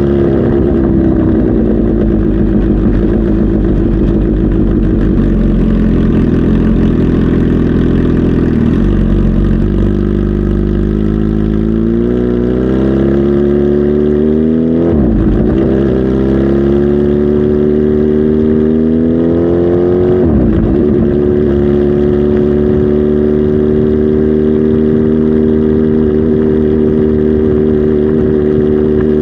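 Kawasaki Z H2 SE motorcycle's supercharged inline-four engine running. It holds steady, then twice the revs climb over a few seconds and fall off sharply, before it settles into a steady note again.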